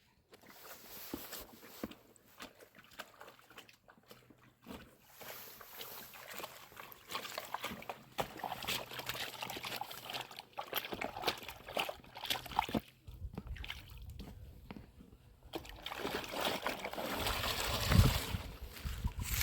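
Water sloshing, trickling and splashing in uneven spurts, with small clicks, growing louder near the end.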